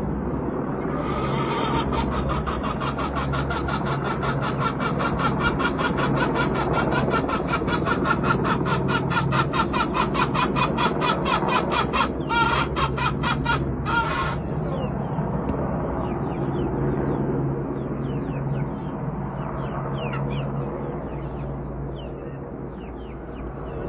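Helicopter rotor blades chopping in a fast, even beat over a steady low hum, loudest through the middle. The chop fades out about two thirds of the way in, leaving the low hum and faint short chirps.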